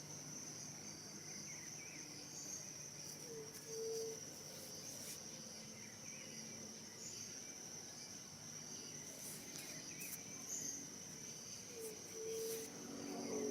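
Crickets singing in a steady high drone, with a short low whistled call heard twice, about four seconds in and again near the end.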